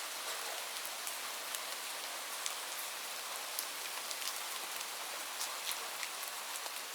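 Steady rain: an even hiss with many scattered drop ticks.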